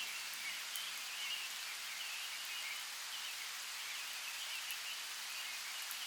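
Steady rain-like hiss of ambient noise, with faint high chirps running through it.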